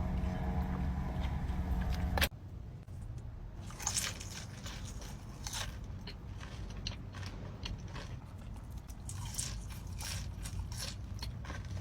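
Close-up eating sounds: repeated crisp, crunchy bites and chewing. For the first two seconds a low steady hum plays, cut off abruptly before the crunching starts.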